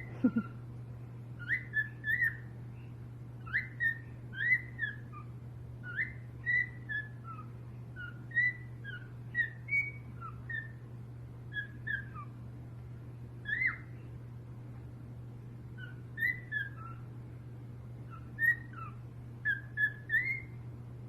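A pet parrot whistling short, sliding notes in small groups of two or three, with pauses between them, over a steady low hum.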